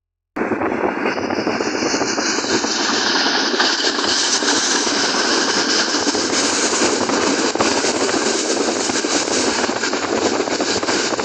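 A train running through the station: a steady, loud rush of wheel-on-rail noise with faint irregular clicks.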